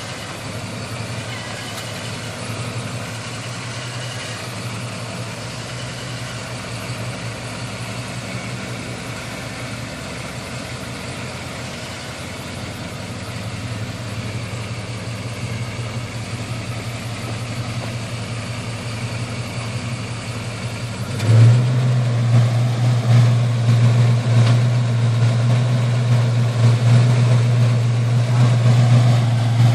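1972 Chevrolet donk's engine idling steadily. About two-thirds of the way through it suddenly gets louder and stays up, with an uneven, pulsing note.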